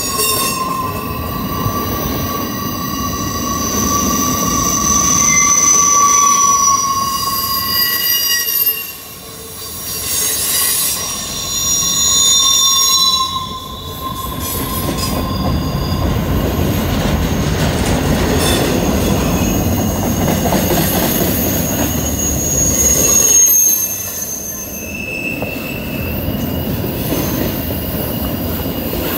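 Freight train of double-stack intermodal well cars rolling past on a curved trestle: a steady rumble of wheels on rail with high wheel squeal from the curve, in several thin, slowly wavering tones that are strongest in the first half and come back briefly later.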